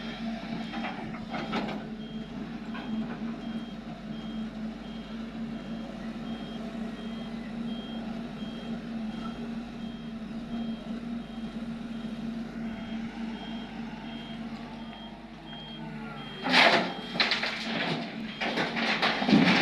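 A vehicle's reversing alarm beeping at a steady, even pace over the steady running of a diesel engine. Near the end, two loud rough surges of noise drown it out.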